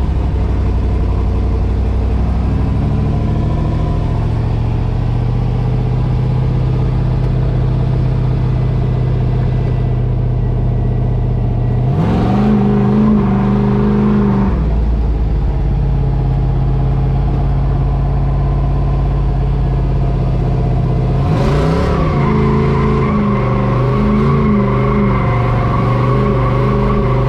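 Drift truck engine running steadily, revved up briefly about halfway through, then revved again later and held at higher revs with the pitch wavering up and down.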